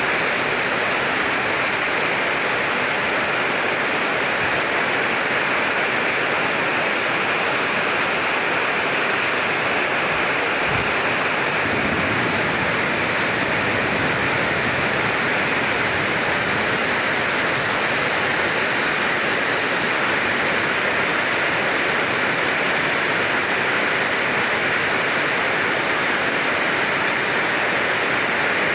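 Heavy rain pouring down, a steady dense hiss that does not let up.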